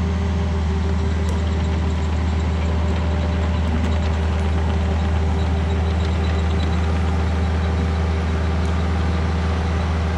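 Kubota excavator's diesel engine running at a steady speed, a low even hum with no revving or changes.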